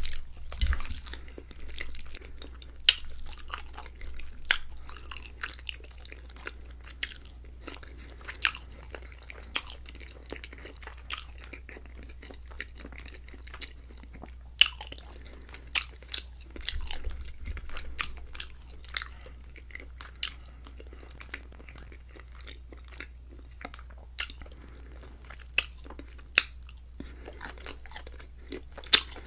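Close-miked chewing of a mouthful of creamy chicken and shrimp alfredo pasta, with irregular sharp wet clicks and smacks of the mouth.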